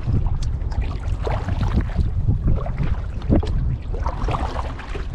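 Kayak paddle strokes splashing in the water, about one a second, over wind rumbling on the microphone.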